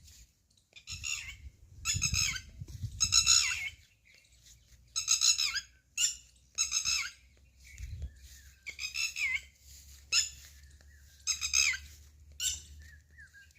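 A bird giving a string of about ten squawking calls, roughly one a second, each under a second long.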